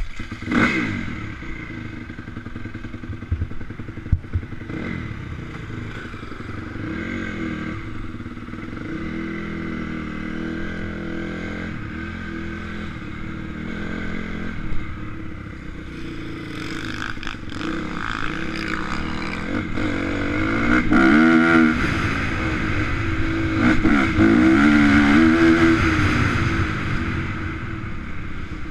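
Honda CRF250 four-stroke single-cylinder motocross bike running on the track, its revs rising and falling over and over. A sharp loud knock comes right at the start, and the hardest revving is in the second half.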